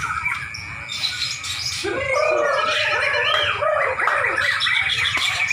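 White-rumped shamas (murai batu) singing: many overlapping whistles, slurred rising and falling notes and chirps, growing busier from about two seconds in.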